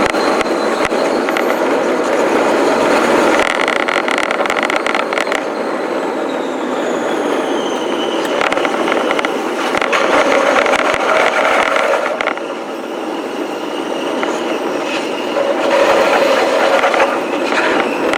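Electric commuter train running on the rails, heard from on board: a steady noise of wheels on track, with thin whining tones that glide slowly in pitch.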